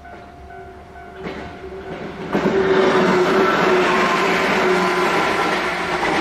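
A level-crossing warning bell rings with a steady repeating tone. From about a second in, a 103 series electric train grows louder, and from about two seconds in it passes close by as a loud, steady rush.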